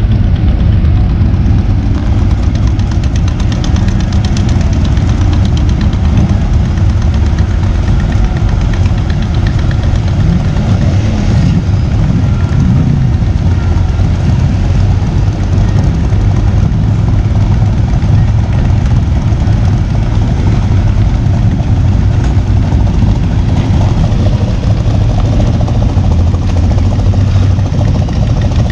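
A vehicle engine running steadily and loud, its sound sitting mostly low.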